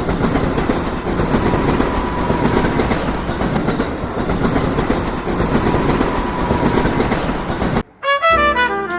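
Passenger train running on the rails: a steady rumble and rattle with a faint thin whine. It cuts off abruptly near the end, and brass jazz music starts.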